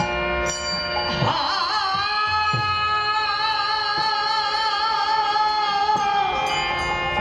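Bengali kirtan music: steady reed-organ-like chords, then about a second in a singer holds one long note with vibrato over them, with a few low drum strokes.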